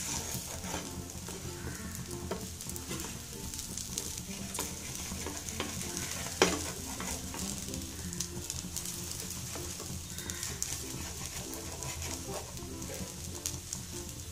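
Oil sizzling steadily under a semiya (vermicelli) egg omelette frying on a tawa, with scattered sharp clicks of a knife blade knocking the pan as the omelette is cut into wedges; the loudest click comes about six and a half seconds in.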